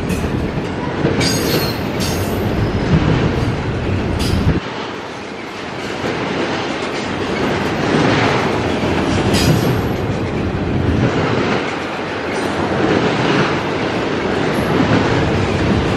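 Double-stack intermodal freight train's well cars rolling past, a steady rumble of steel wheels on the rails with a couple of brief, high wheel squeals. The deepest part of the rumble drops away suddenly about four and a half seconds in.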